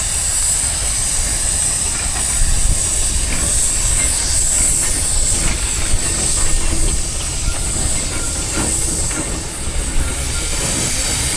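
Steam traction engines hissing steadily as they let off steam, over a low rumble, with scattered light clicks and knocks.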